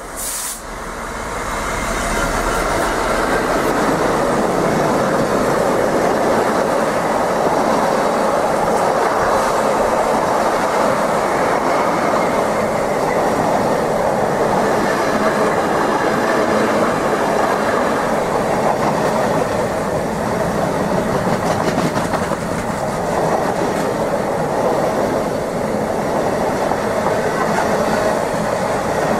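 A train running past on the rails: a long, steady rumble of wheels and running gear with faint repeated clicks over the rail joints. A brief sharp noise comes just as it begins.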